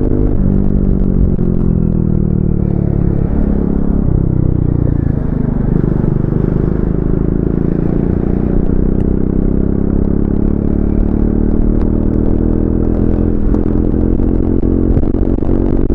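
Triumph Speed 400's single-cylinder engine running under way. Its revs fall over the first few seconds, break briefly about four seconds in, then climb slowly and steadily through the rest.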